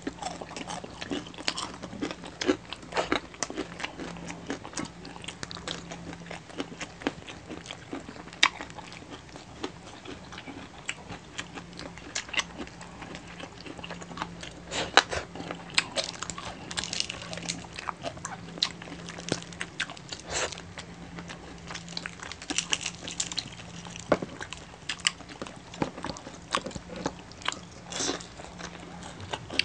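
Crispy pata (deep-fried pork knuckle) being bitten and chewed close to the microphone: irregular crunches and mouth clicks, over a steady low hum.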